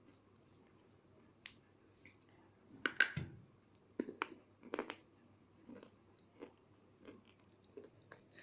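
A person biting and chewing pieces of Bombay-brand slate pencil: a few sharp crunches, the loudest about three seconds in, then softer chewing strokes about every two-thirds of a second.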